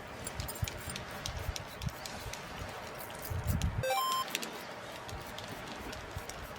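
Gusty wind buffeting the microphone, with scattered short clicks. About four seconds in comes a brief chime of stepped tones rising in pitch.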